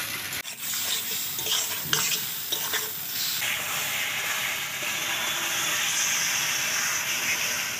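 Potato and brinjal pieces frying with spices in an iron kadai, with a spatula scraping and knocking against the pan as they are stirred. For the first three seconds or so the spatula clicks are scattered; after that a steady sizzle takes over.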